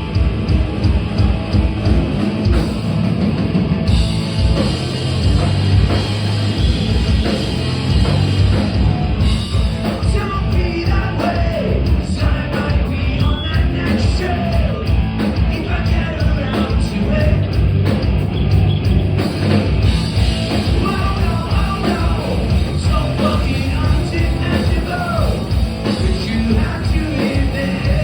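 Punk rock band playing a song live at full volume, the whole band going at once over a steady drum beat, with a singer's vocals coming in about ten seconds in.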